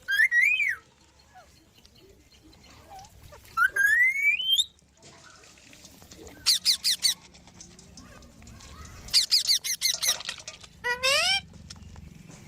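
Parrots calling: a few rising, high-pitched screeches, and two quick chattering runs of short sharp notes about six and nine seconds in.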